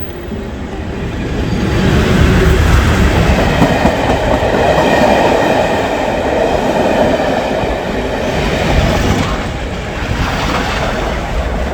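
Class 37-hauled test train passing on the main line, its noise building over the first couple of seconds and then holding loud and steady.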